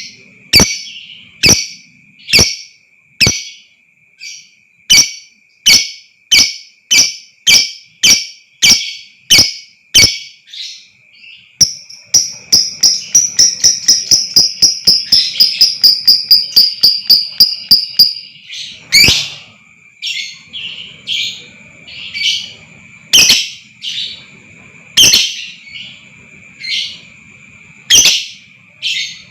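Lovebird calling in sharp, loud chirps about two a second. About twelve seconds in, the chirps speed up into a fast chattering trill (the long "ngekek") lasting some six seconds, then drop back to slower, irregular chirps. A steady high thin tone runs underneath.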